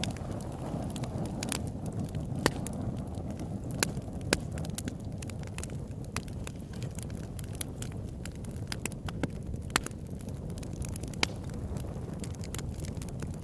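Campfire burning: a steady low rush of flames with irregular sharp crackles and pops from the burning wood, a handful of them louder snaps.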